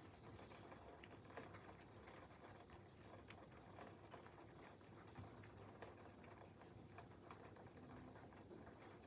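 Faint heavy typhoon rain: a steady hiss with scattered, irregular drop ticks.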